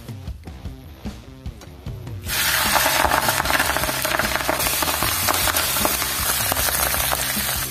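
Leafy greens frying in hot oil in a wok: a loud, steady sizzle starts suddenly about two seconds in, as they are stirred with a metal ladle.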